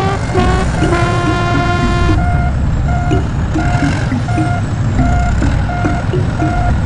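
Heavy vehicle engine rumbling steadily under a string of short, evenly repeating electronic beeps, with a horn-like tone held for about a second near the start.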